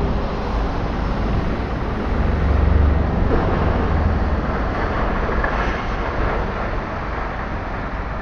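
Road traffic on a wet street: a steady tyre hiss over engine rumble, the rumble loudest about three seconds in as a vehicle passes.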